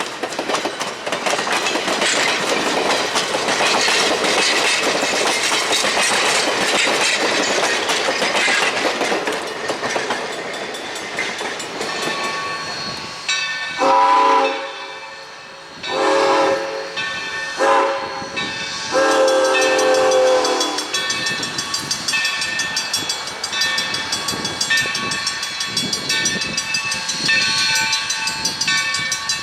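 Steam train running, with a wide rushing noise. A steam locomotive's chime whistle then sounds four blasts, long, long, short, long, the grade-crossing signal, and is followed by the train's rolling noise.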